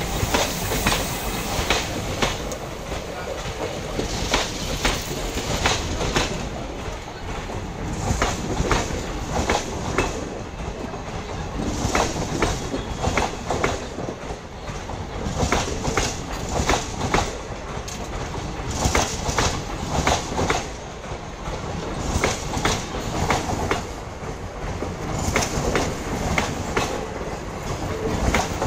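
Indian Railways passenger train of sleeper coaches rolling past close by, its wheels clacking over the rail joints in a continual run of sharp knocks over the steady rumble.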